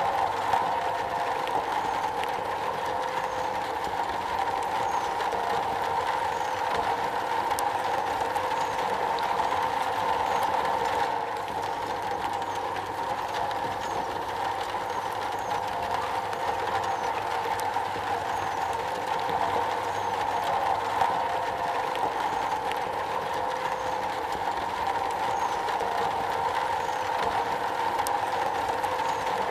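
Steady rain falling on a metal roof: a continuous even patter with scattered sharper drop hits.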